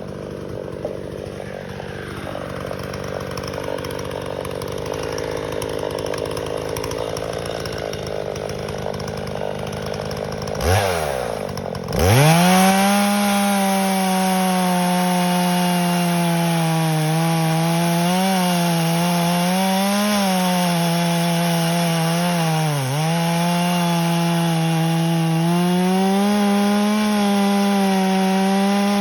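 Two-stroke chainsaw running quieter at first, then about eleven seconds in it revs up sharply and runs loud at high speed. The pitch dips briefly a few times, as under load in wood.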